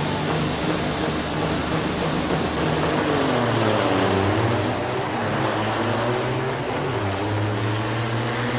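Diesel semi-truck engines running hard in a drag race, with a steady low engine note that dips and rises in pitch midway. Over it is a high whine that climbs in pitch about three seconds in.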